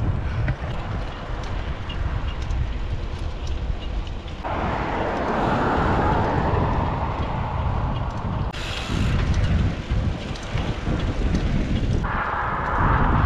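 Wind buffeting the microphone, a steady low rumble, during a bicycle ride. A hissing rush of moving air comes in abruptly about four and a half seconds in and again near the end.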